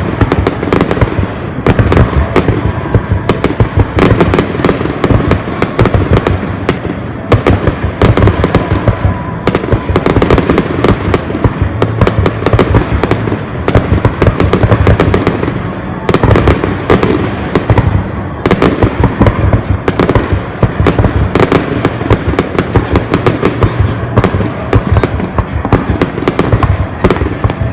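Fireworks display: a continuous barrage of sharp bangs and crackles from bursting aerial shells, many per second, over a low rumble.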